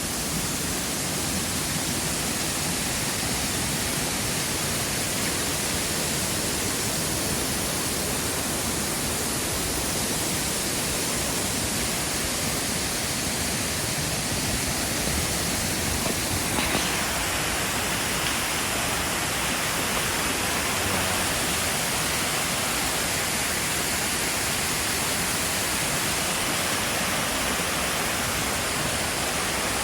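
Waterfall rushing: a steady, even roar of falling water, growing a little brighter in tone about halfway through.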